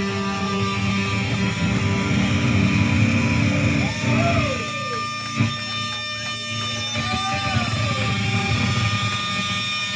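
Live heavy band's electric guitars ringing out through amplifiers, with steady feedback tones and several sliding bends in pitch. One sharp hit comes about halfway through.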